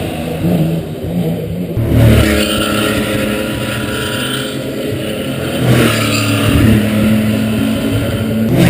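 Racing car engine accelerating hard, its pitch climbing through the gears with sharp breaks at the shifts about two and six seconds in.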